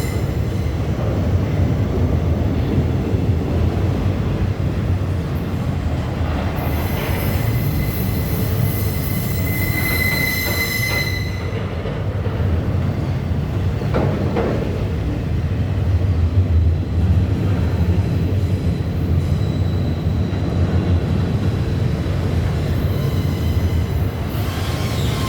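Container freight train rolling by with a steady low rumble of steel wheels on rail. Thin high wheel squeal comes and goes, loudest about ten seconds in.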